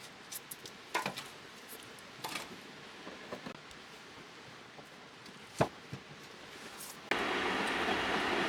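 A few scattered sharp knocks and clicks, then about seven seconds in a steady rushing noise starts suddenly and carries on.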